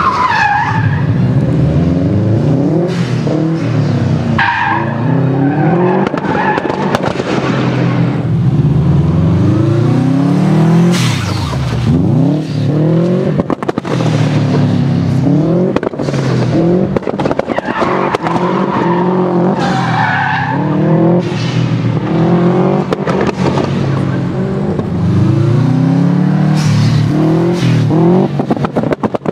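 Turbocharged Subaru Impreza flat-four engine revving up and falling back again and again as the car drifts in circles, with its tyres skidding on wet tarmac. Sharp pops and bangs from the anti-lag system break in among the revs.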